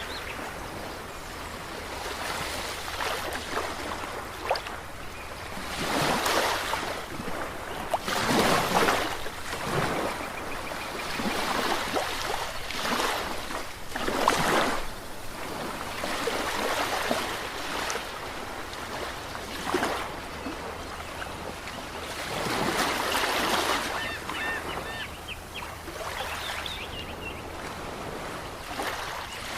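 Ocean waves breaking on a shore, a continuous wash of surf that swells into a louder surge every few seconds, over a steady low rumble.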